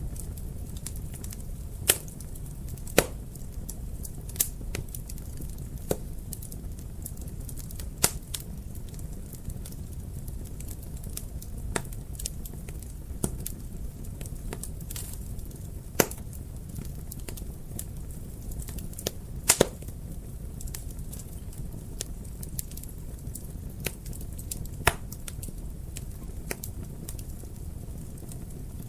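Wood fire burning in a fireplace: a steady low rumble of flames with sharp crackles and pops at irregular intervals, a handful of them louder snaps.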